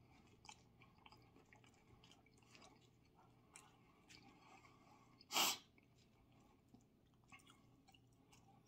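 Faint close-miked chewing and mouth sounds of a man eating baked potato, with small scattered clicks. About five seconds in comes one short, much louder burst of breath.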